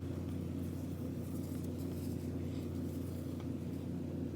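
Steady low engine hum of an idling semi truck, heard inside the cab, with a couple of faint light clicks partway through.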